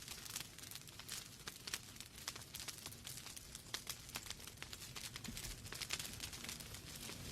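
Wood fire burning in a fireplace: logs crackling with many small irregular pops over a soft hiss and low rumble of the flames.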